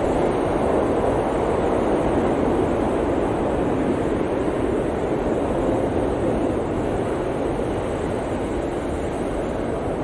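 Blizzard wind blowing steadily, a dense, even rushing noise that eases slightly in the last few seconds.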